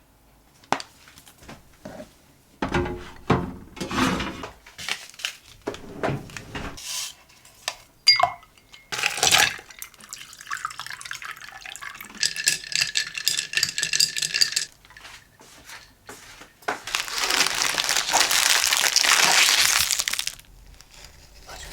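Kitchen clatter: a string of knocks and clinks from dishes and utensils being handled, then water running from a tap for about three seconds near the end.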